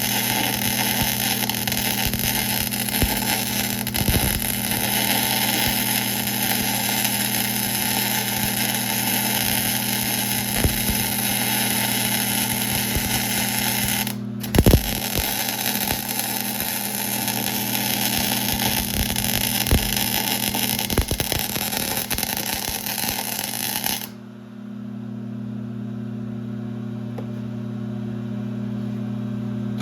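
Geared-head lathe running with a steady hum under the loud hiss and clicking of a boring cut. The cutting noise breaks off briefly around the middle, then stops suddenly about 24 seconds in, leaving only the lathe's hum.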